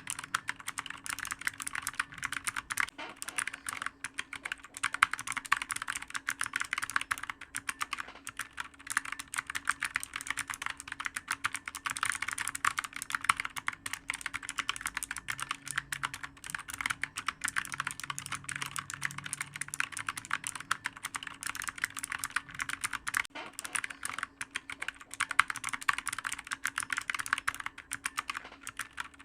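Continuous fast typing on a clicky computer keyboard: a dense stream of rapid keystrokes, with a few brief lulls.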